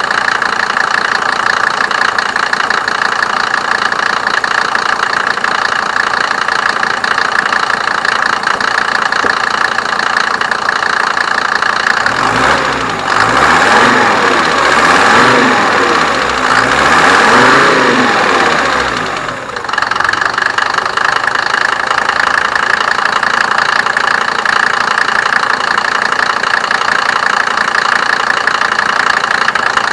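1987 Mercedes 190D's OM602 2.5-litre five-cylinder turbo diesel idling with diesel knock. About twelve seconds in, it is revved up and down several times for some seven seconds, then settles back to idle.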